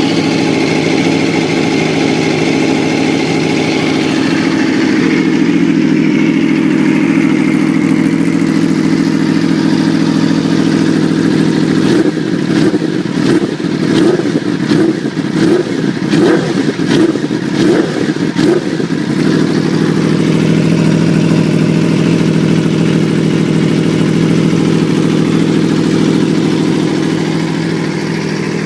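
Aprilia RSV4's V4 engine with an Austin Racing GP2R full-system exhaust, running steadily, then blipped up through a quick run of about seven sharp revs with crackling from the exhaust, then settling back to a steady idle.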